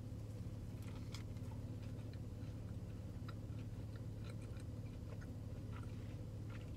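Faint chewing of a mouthful of chicken sandwich, with soft mouth clicks scattered through it, over a steady low hum.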